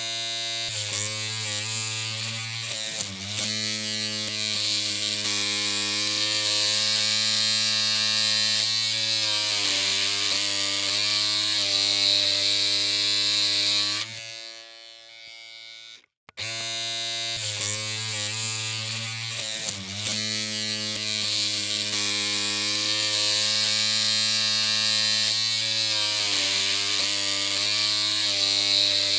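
Electric hair clippers humming with a steady low buzz and a string of overtones, the pitch wavering briefly now and then. About halfway through the hum dies away and stops, then starts again a couple of seconds later and runs on.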